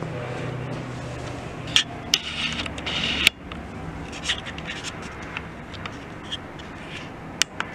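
Scraping and rubbing of small objects being handled and rummaged through, with a few sharp clicks, the loudest just over three seconds in.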